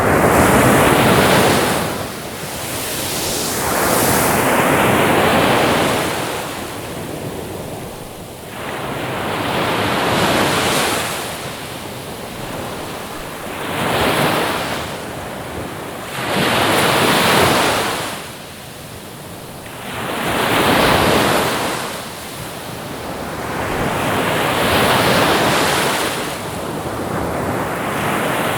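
Ocean surf: waves breaking and washing in, the rush of water swelling and fading about every three to four seconds.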